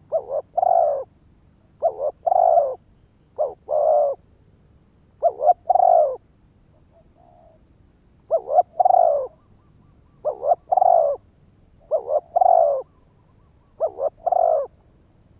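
Spotted dove (cu gáy) cooing its territorial song. It repeats a phrase about eight times, each made of two short coos and a longer, falling note, with a pause of a couple of seconds in the middle.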